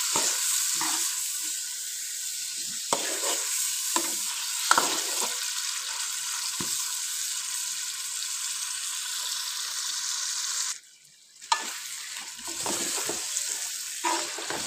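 Yogurt-marinated chicken pieces frying and sizzling in hot oil in a metal pan, with a steady hiss as the marinade's water cooks off. Short knocks and scrapes come from a metal spoon stirring against the pan. The sizzle cuts out for about half a second about eleven seconds in.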